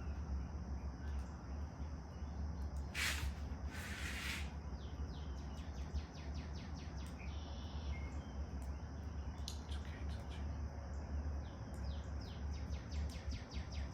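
Small birds chirping in rapid runs of short falling notes, twice, over a steady high-pitched hiss and a low background rumble. Two short rushing noises come about three and four seconds in.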